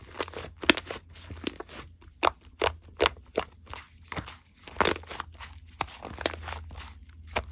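Slime being pressed and squished by hand, making a dozen or more sharp, irregular clicking and popping sounds over a faint low hum.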